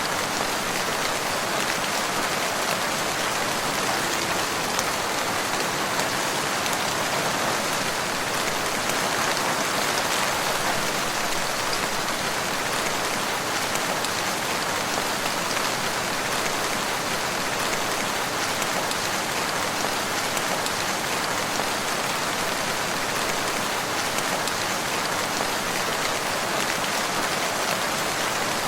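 Steady, even rain falling, a continuous patter of drops on surfaces.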